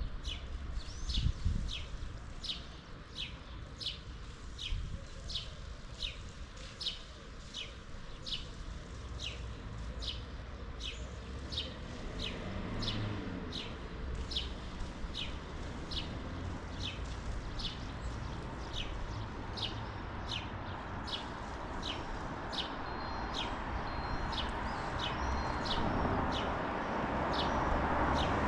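A bird repeating a short, high, falling call over and over, about three calls every two seconds. A rushing background noise grows louder through the second half.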